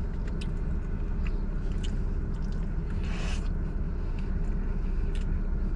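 A person chewing food, with small clicks and scrapes of eating, over a steady low rumble. A short scraping burst comes about three seconds in.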